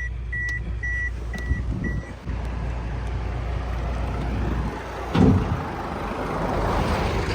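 Short high electronic warning beeps, about two a second, that stop about two seconds in, over the steady low rumble of an idling engine; a thump about five seconds in.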